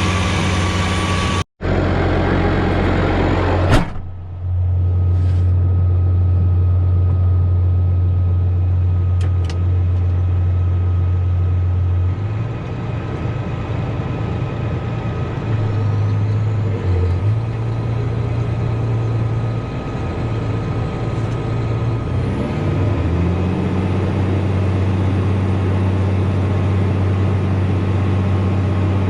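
Diesel tractor engine running steadily with a low hum. Its note shifts several times, dropping and rising in pitch, with a brief cut-out and a single sharp click early on.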